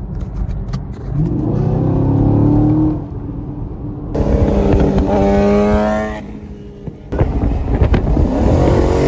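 A vehicle engine accelerating hard in three rising pulls, each climbing in pitch and then dropping off briefly before the next.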